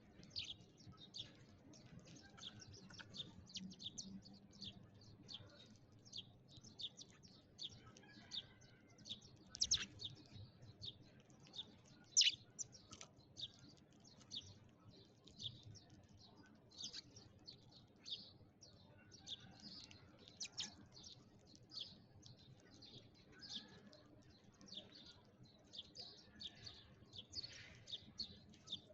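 Sparrows chirping: a busy, continuous chatter of short, sharp high chirps, several a second, from a number of birds at once.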